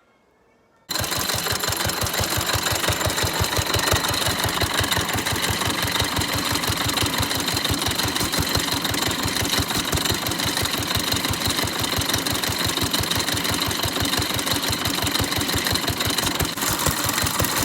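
Fairbanks-Morse 'Dishpan' antique stationary gas engine running steadily, a rapid, even beat of strokes that starts about a second in.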